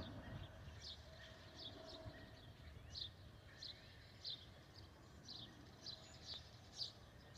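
A bird chirping repeatedly in short, high, falling notes, roughly one or two a second, over a faint low outdoor rumble.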